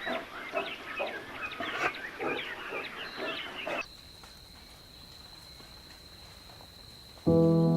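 Chickens clucking, a rapid run of short calls that stops abruptly about four seconds in. A faint steady high whine follows, and music with sustained piano-like notes comes in loudly near the end.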